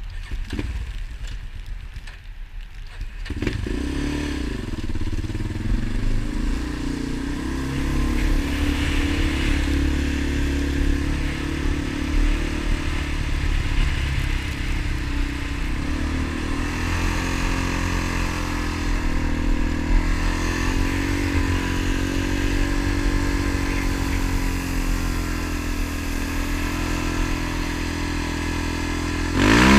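Motorcycle engine, quieter for the first three seconds, then running steadily with its pitch rising and falling as the throttle changes, and revving up louder near the end.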